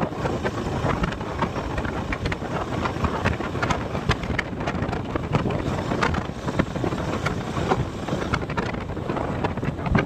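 Wind buffeting the microphone on a moving motorcycle, a steady rush of noise with frequent crackles and pops.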